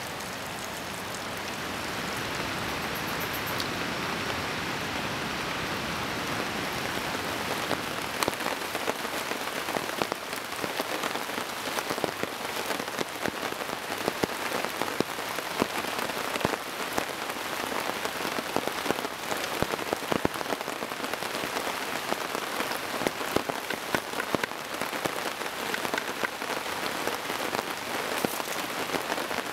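Heavy rain falling steadily, with many sharp drop impacts standing out, more of them from several seconds in.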